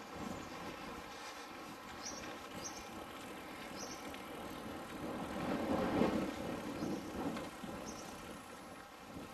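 Wind and riding noise on a bicycle, picked up by an action cam's microphone that is covered with a small fur windscreen, so the wind comes through muffled. The rushing noise swells louder about five to seven seconds in, with a few faint high clicks.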